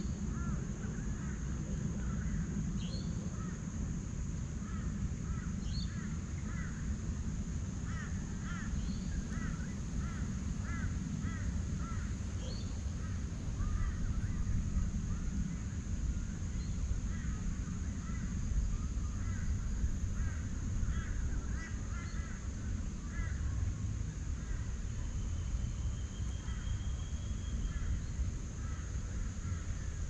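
Forest birds calling over and over, many short chirps and harsh calls, some of them crow-like caws. Under them runs a steady low rumble, and above them a constant thin high tone.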